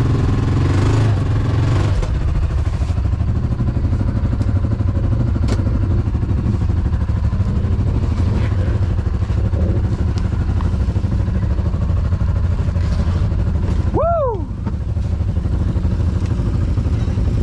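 Off-road vehicle engine running steadily with a low rumble while it is moved back and forth to be parked. About fourteen seconds in there is a short tone that rises then falls.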